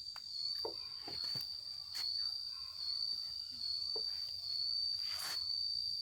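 Insects trilling steadily at a high, unchanging pitch, with a few scattered clicks and a short rustle about five seconds in.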